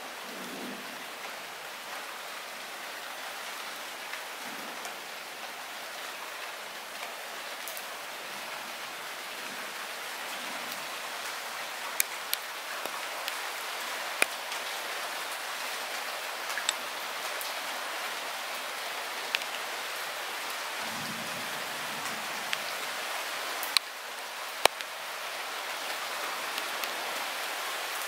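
Light rain falling steadily, a dense even hiss with a few sharp ticks of single drops striking close by.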